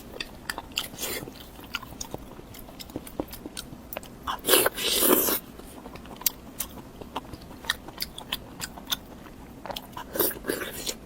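Close-miked eating sounds: chewing with many small wet mouth clicks, and a louder burst of about a second roughly four and a half seconds in, with a shorter one near the end.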